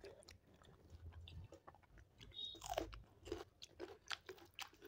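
Faint chewing of curd rice eaten by hand with raw onion and green chillies, with scattered short clicks and crunches of mouth and fingers.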